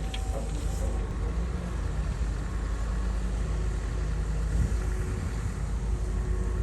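Komatsu bulldozer's diesel engine running with a steady low rumble.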